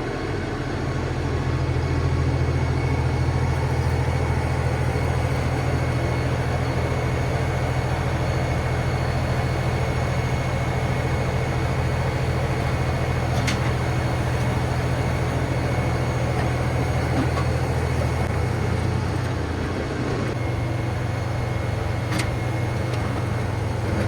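LS MT357 compact tractor's 57-horsepower diesel engine running steadily with a low drone while working the driveway. Its level eases slightly about two-thirds of the way through. Two brief sharp clicks come through about halfway and near the end.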